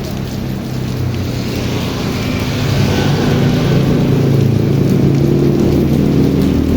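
Heavy rain falling steadily, with a low rumble of thunder building about two seconds in and rolling on to the end.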